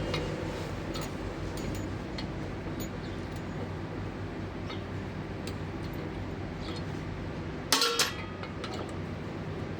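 Light metallic clicks and taps of hand tools working on an alternator's end cover, then one loud metal clank with a brief ring about eight seconds in, over a steady low background hum.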